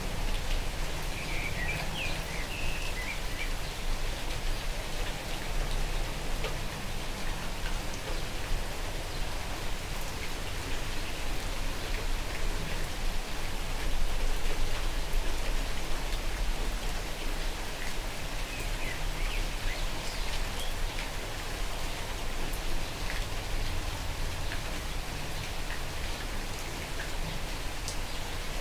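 Log fire burning in a fireplace: a steady hiss with frequent small crackles and pops from the burning wood, and a few brief high squeals near the start and again about two-thirds through.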